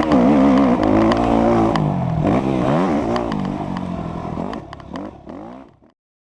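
Dirt bike engine revving up and down as it rides, the sound fading steadily away until it is gone near the end.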